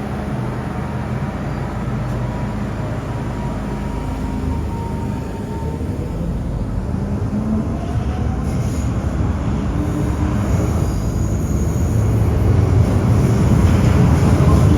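MTR Island Line first-generation M-Train electric multiple unit running along the station platform. Its rumble grows louder over the last few seconds.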